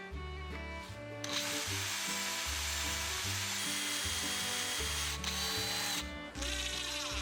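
A power tool running steadily with a thin whine over background music, starting about a second in and briefly dropping out near the end.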